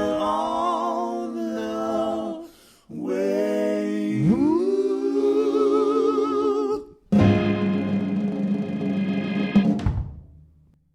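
Voices singing a cappella, holding long notes with vibrato. There is a pitch slide up about four seconds in and two short breaks, then a final held chord fades out near the end.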